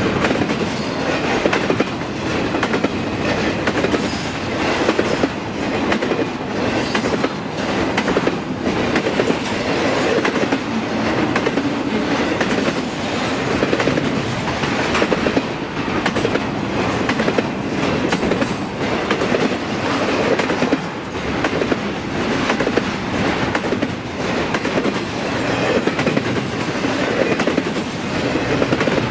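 Train cars rolling past trackside with a steady rumble, the wheels clicking repeatedly on the rails.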